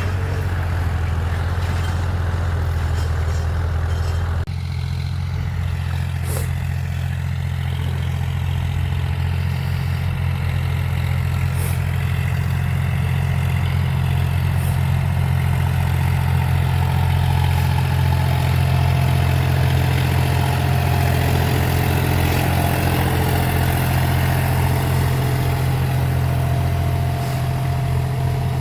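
Tractor engine running steadily with a constant low hum. About four and a half seconds in, the higher-pitched noise over the hum drops away, and it builds back slowly later on.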